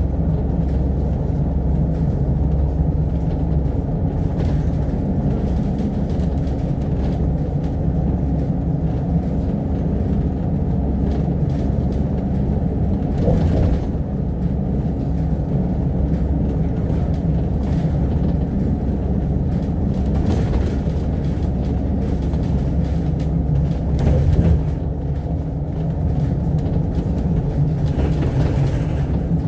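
Cabin noise inside an Alexander Dennis Enviro500 MMC double-decker bus on the move: steady engine and road drone, with a few brief rattles near the middle and toward the end.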